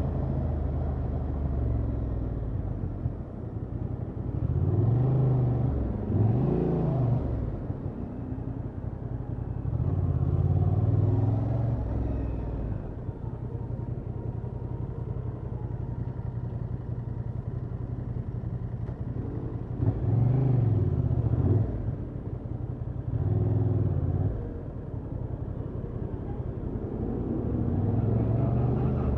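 Honda XL750 Transalp's parallel-twin engine on its stock exhaust, running and being revved in several short pulls whose pitch rises and falls, with steadier, lower running in between.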